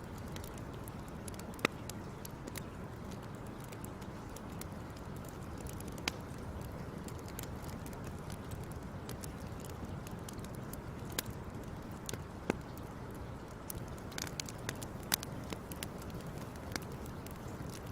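Wood fire crackling: a steady low rumble of burning with sharp pops and snaps at irregular intervals, coming more often near the end.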